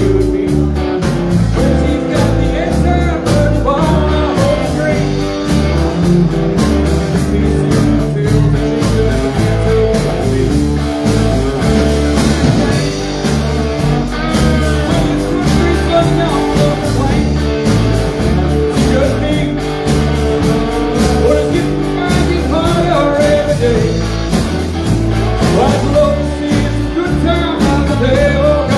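Live band playing a bluesy rock-and-roll song, with electric guitar and bass over a steady beat.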